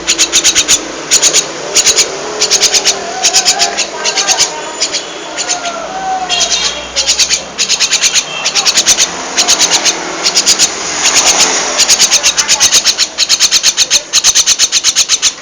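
A young jalak (starling) chattering close by: loud runs of rapid clicks, repeated again and again, with a few short whistled notes about four to seven seconds in.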